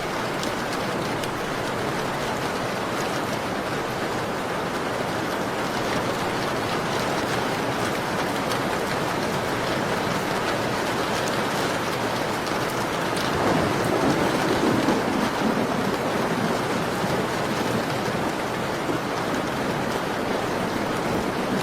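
Steady rain falling on a window, an even hiss with a louder, deeper swell lasting a few seconds about two-thirds of the way through.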